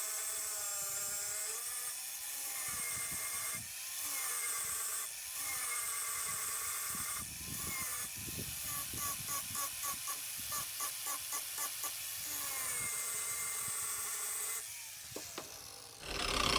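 Electric grinder working steel rebar pegs: a motor whine that sags and recovers in pitch as it bears on the metal, with short breaks and a rapidly pulsing stretch midway. It shuts off near the end.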